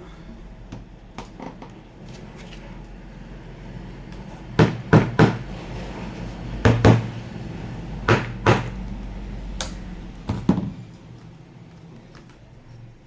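Sharp knocks and clicks on wood, mostly in close pairs, over a steady low hum.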